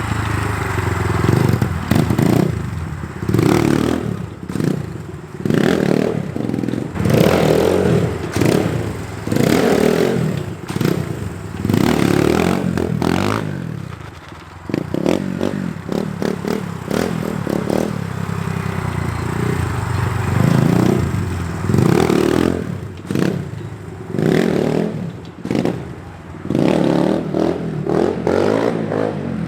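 SSR 150 dirt bike's single-cylinder four-stroke engine revving up and dropping back again and again as the throttle is opened to pop wheelies and then eased off. The revving is mixed with clattering and scraping noise.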